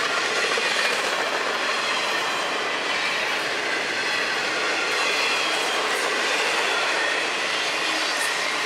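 Intermodal freight train cars loaded with double-stacked containers rolling past: a steady rumble and rattle of steel wheels on rail, with a faint high, wavering wheel squeal.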